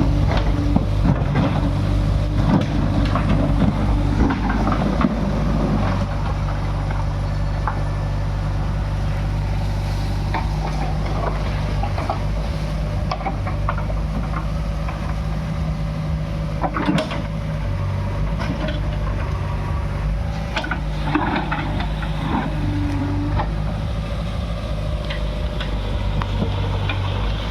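JCB 3DX backhoe loader's diesel engine running steadily under working load, with scattered knocks and clatter from the digging.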